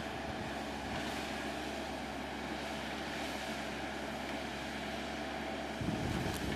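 A machine engine running steadily. About six seconds in it gives way abruptly to a rougher, uneven low rumble.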